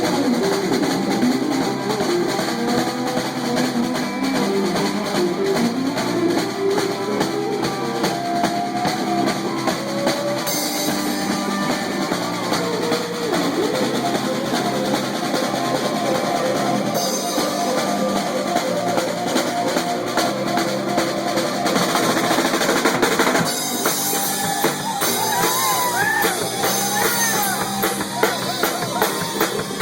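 Live rock band with a drum kit keeping a steady beat while a guitar plays an improvised lead solo, with bent notes that rise and fall near the end.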